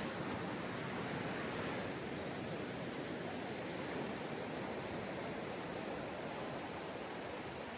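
Ocean surf washing steadily on a sandy beach, a continuous even rush with no distinct wave break standing out.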